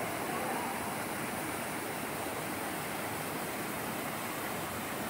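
Orlias waterfall on Mount Olympus: falling water making a steady, even rush.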